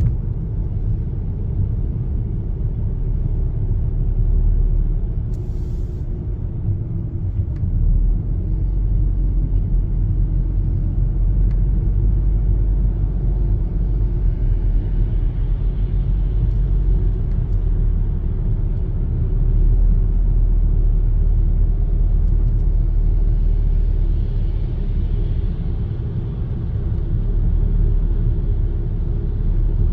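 Car driving, a steady low rumble of engine and tyre noise.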